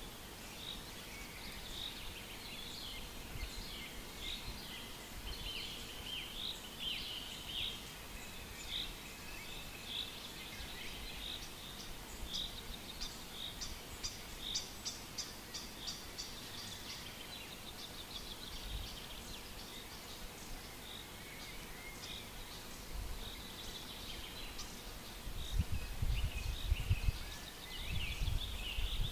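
Forest birds singing: many short high chirps, whistles and trills overlapping throughout. A low rumble comes in near the end.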